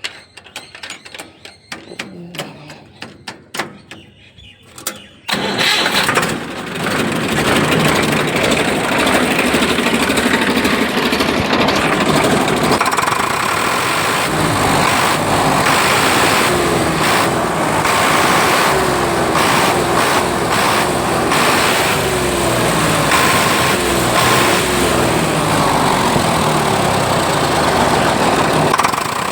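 Swaraj 855 tractor's three-cylinder diesel engine starts about five seconds in after some clicking, then runs loudly and is revved up and down again and again, its fuel delivery just turned up.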